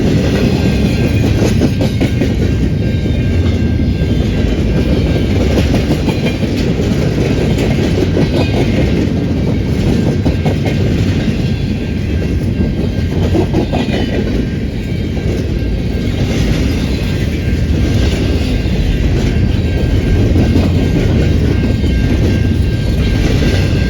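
Train rolling past close by, a steady loud rumble of wheels on the rails with clickety-clack over the rail joints.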